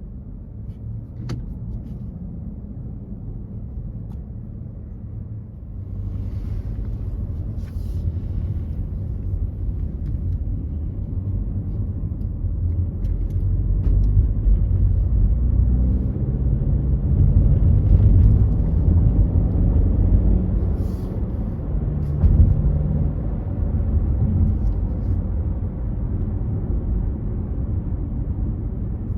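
Car driving at speed: a steady low road rumble that grows louder about six seconds in and is loudest midway, with a few faint clicks.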